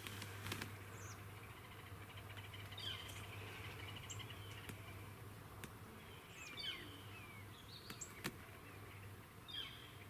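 Faint songbird chirps and short falling whistled calls scattered through a quiet field, with a few soft clicks and a low steady hum underneath.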